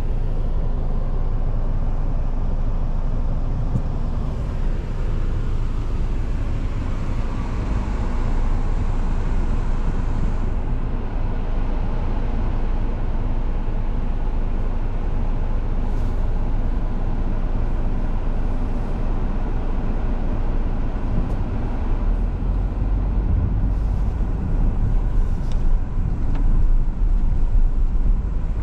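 A car driving: a steady low rumble of engine and road noise, a little louder near the end.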